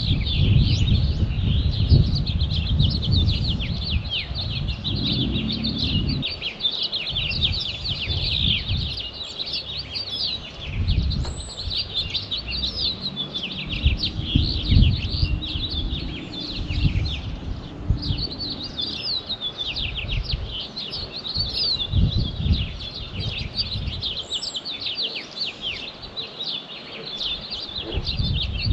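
Dense chorus of many songbirds chirping and singing together without a break, rapid high notes overlapping throughout. Irregular low rumbling comes and goes underneath.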